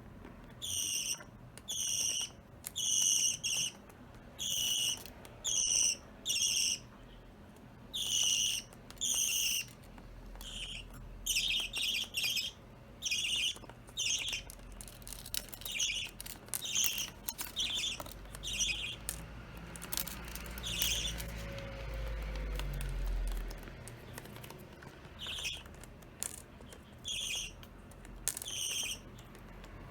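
Budgerigars giving a long run of short, high chirps, one after another at a fairly even pace, with a few brief pauses.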